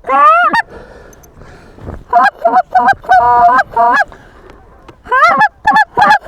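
Canada goose calls blown by hunters: a loud honk at the start, then runs of short, quick clucks and honks, calling to incoming geese.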